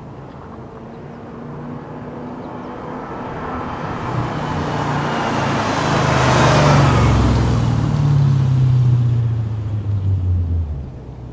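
2005 Audi S4 B6's 4.2-litre V8 with JHM headers and a Milltek non-resonated exhaust, driving past. The exhaust note grows steadily, is loudest about seven to nine seconds in, then drops in pitch and falls away sharply near the end.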